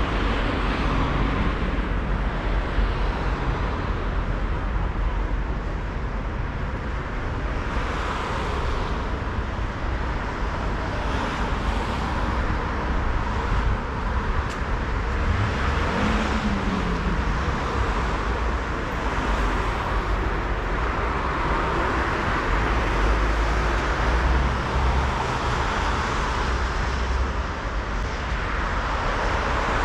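City road traffic passing along the street: a steady low rumble, with cars swelling past every few seconds and one vehicle's engine note rising and falling about halfway through.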